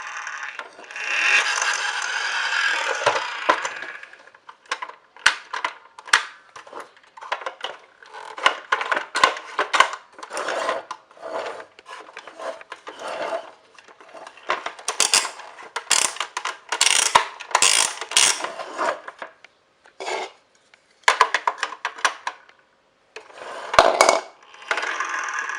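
Toy parts being handled: a rubbing, scraping sound for the first few seconds, then irregular clicks, rattles and clacks of small hard pieces knocking together.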